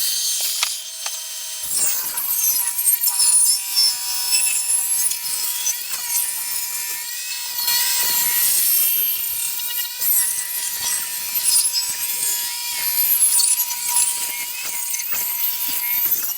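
Table saw ripping a Douglas fir board lengthwise: the motor runs at a steady whine while high, wavering squeals come from the blade as the board binds against it. Super noisy. It stops abruptly near the end.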